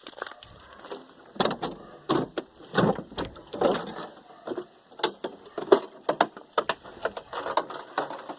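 Irregular knocks and clanks, a dozen or so spread unevenly, from metal engine parts being handled during work on a small-block Chevy 350 engine.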